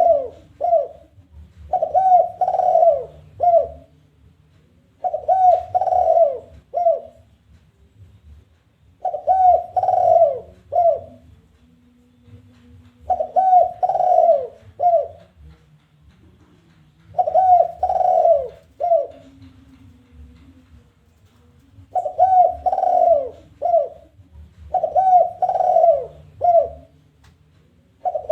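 Spotted dove (tekukur) cooing its challenging 'kuk 1' song: phrases of two drawn-out coos and a short closing note, repeated about every three to four seconds.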